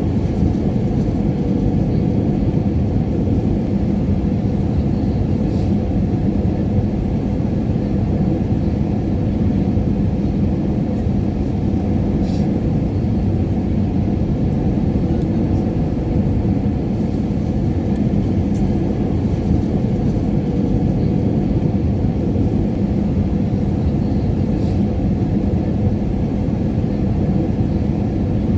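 Airliner cabin noise in flight: a steady, deep rumble of engines and airflow with a faint low hum, unchanging throughout.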